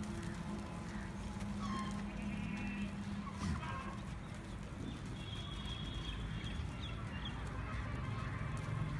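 Goat pen ambience: goats moving about, with a few short faint calls. A steady low hum stops about three seconds in, and there is a single knock midway.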